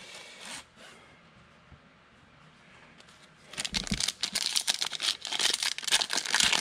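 Foil trading card pack wrapper being torn open and crinkled by hand, a dense crackling that starts about halfway through.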